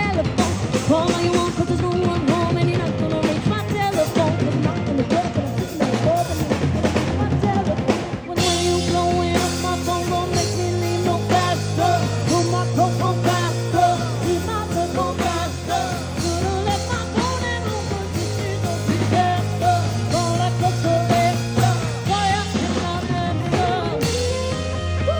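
Live band music: a singer over drum kit and band. About eight seconds in there is a brief drop, and then the band comes back fuller with a steady bass line.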